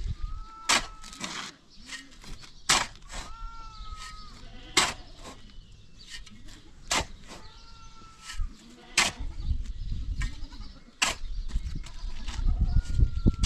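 Goats bleating, a few short calls, over a series of sharp knocks coming about every two seconds.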